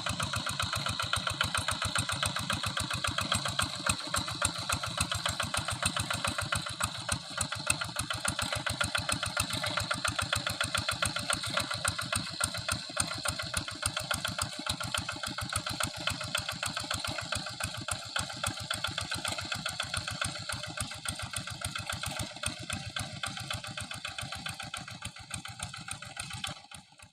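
Small single-cylinder engine of a Quick Impala walk-behind tractor running steadily, with fast, even firing pulses. It stops abruptly near the end.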